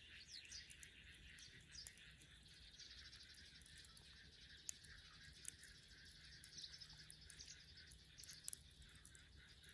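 Faint wood fire burning dead branches, with a few sharp crackling pops around the middle and near the end, over steady background chirping of birds and insects.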